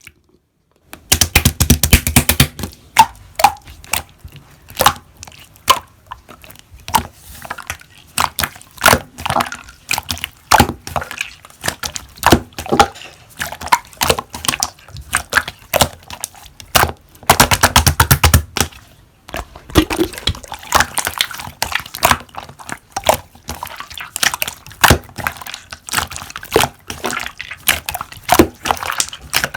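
Slime being squished and worked, giving rapid clicking and crackling pops from trapped air; the sound starts about a second in and has two especially dense, loud stretches, near the start and a little past the middle.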